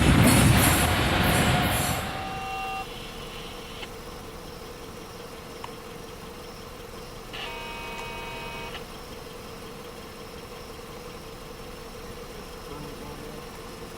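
The tail of a passing train rumbles by with a squealing wheel tone, ending abruptly about two seconds in while the squeal fades out about a second later. After that a steady hum remains, and about seven seconds in a horn sounds once for about a second and a half.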